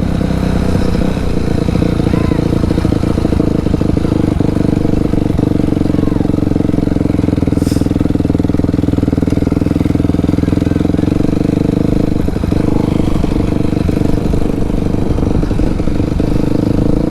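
A 280 dirt bike's engine, very loud and running steadily at a nearly even pitch while being ridden, with no big revs. There is a brief high hiss about eight seconds in.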